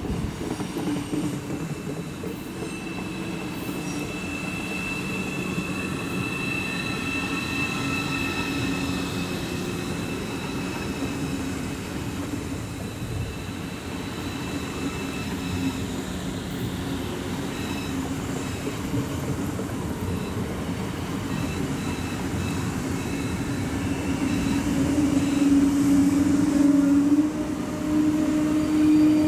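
Deutsche Bahn ICE 4 high-speed train running slowly past with a steady rolling and humming sound. High, drawn-out wheel squeal sounds through the first half. It gets louder near the end.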